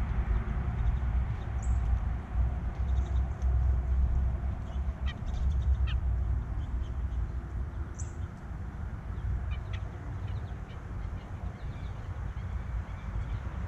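Wild birds at a backyard feeder giving short, scattered calls over a steady low rumble.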